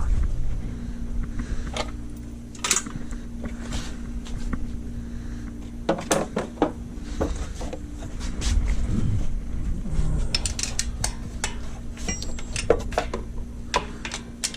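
Metal hand tools and parts clinking and knocking, with a quick run of small clicks near the end, over a steady low hum.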